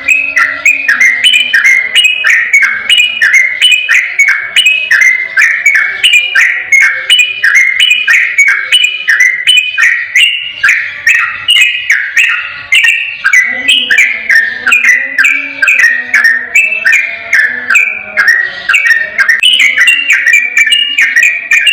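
Sooty-headed bulbul singing a long, unbroken 'ropel' song: a rapid run of clear, bubbly whistled notes repeated without pause.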